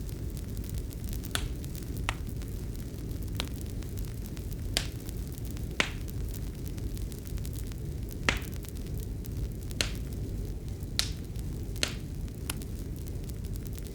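Wood fire crackling in a fireplace: a steady low rumble of flames with sharp pops and snaps at irregular intervals, about ten of them.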